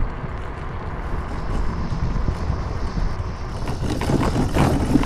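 Riding noise from an electric scooter moving through city traffic: steady wind rumble on the microphone with road and tyre noise, and the traffic growing louder about four seconds in.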